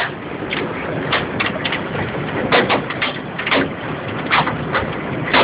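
Heavy hailstorm: a steady hiss of rain and hail with sharp, unevenly spaced cracks of golf-ball-sized hailstones striking, a few each second.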